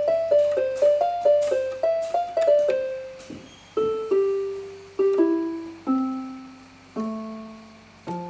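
Electronic keyboard with a piano sound playing a melody. Quick short notes run for about three seconds, then it slows to single notes about a second apart that step downward in pitch. Each note is left to ring and fade, ending on a low note.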